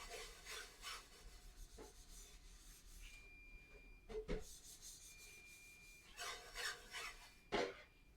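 Faint, irregular scraping strokes, with a thin high steady tone heard twice in the middle.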